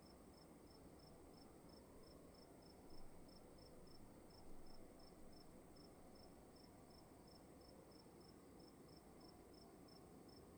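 Crickets chirping faintly in a quiet room: a regular chirp about three times a second over a continuous higher trill, with a low background hush. Two soft low bumps come about three and four and a half seconds in.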